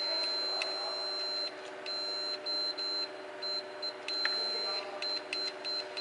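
High-pitched electronic buzzer tone, steady for about a second and a half, then cutting in and out in irregular beeps of varying length, with a few sharp clicks.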